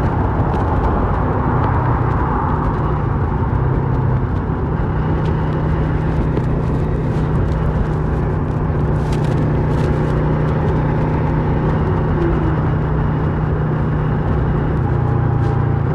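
2008 Kawasaki Versys 650 parallel-twin engine running under way through a Mivv slip-on exhaust, with a steady low note. The pitch steps up about four seconds in and drops back near the end.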